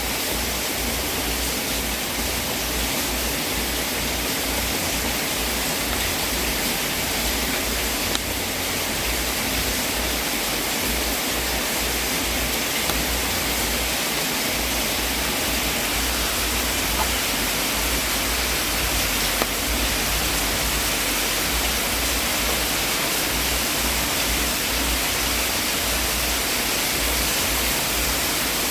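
Wood fire burning in a fireplace: a steady hiss with a few small pops.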